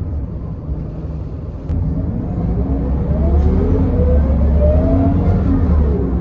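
Scania L94UB bus engine, quieter at first, then picking up after a click about two seconds in, its note rising steadily as the bus accelerates.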